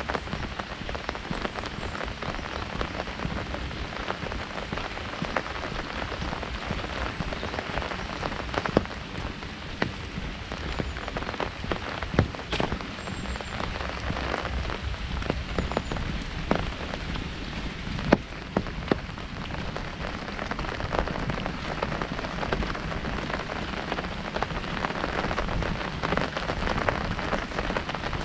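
Heavy rain on a large umbrella: a dense, steady patter of drops on the canopy, with a few louder single drop hits scattered through.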